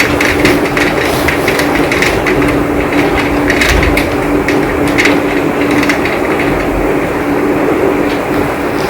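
Heavy rain falling steadily, with the sharp ticks of large drops striking close by scattered through the hiss, over a steady faint low hum.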